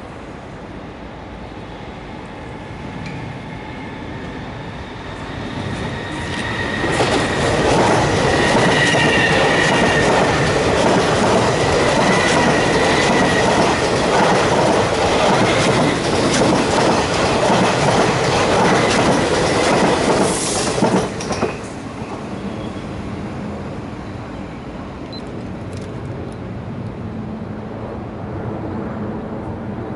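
East Rail Line MLR electric multiple unit passing close by over a set of points, its wheels clattering over the turnout. It builds over the first several seconds, stays loud for about fourteen seconds with a high squeal in the first part, then drops off suddenly as the last car passes, leaving a lower fading rumble.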